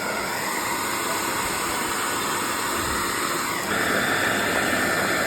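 Hair dryer blowing steadily with a rushing hiss, turned to a higher heat setting; its pitch and level step up about three and a half seconds in.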